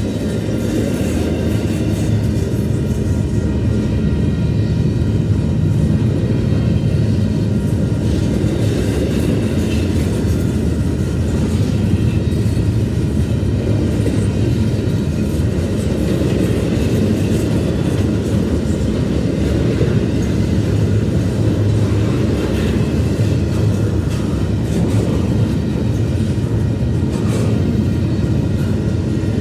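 Mixed intermodal freight train rolling past, its cars giving a steady rumble and clatter of wheels on the rails.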